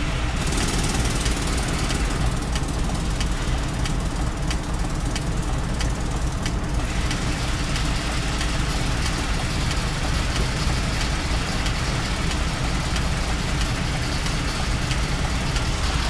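Mercedes truck diesel engine idling steadily, with a faint regular ticking a few times a second. The truck has an injector fault on cylinder 4, found with a diagnostic laptop.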